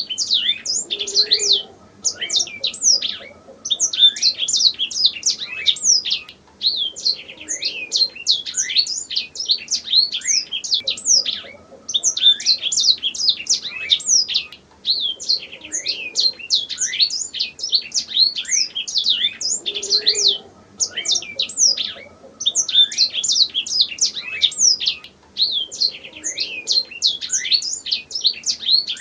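Domestic canary singing: long phrases of rapid, fast-gliding chirped notes, broken by brief pauses every few seconds.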